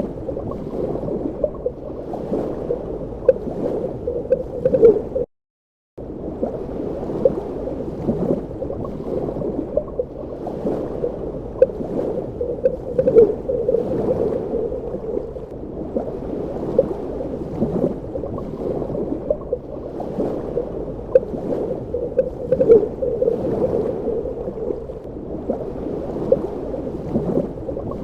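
Underwater ambience: a muffled, steady wash of water with frequent small bubbling pops, low in pitch. It cuts out completely for about half a second around five seconds in, then resumes.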